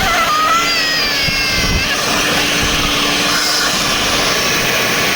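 Leaf blower running steadily, a loud even rush of air with a steady hum. Over it, for about the first two seconds, a small child gives a long high-pitched shriek of delight.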